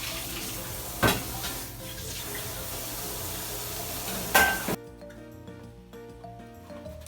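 Kitchen sounds during food preparation: a steady hiss with two sharp clatters of dishware, about a second in and again past the middle. The kitchen sound cuts off abruptly about two-thirds of the way through, leaving only soft background music.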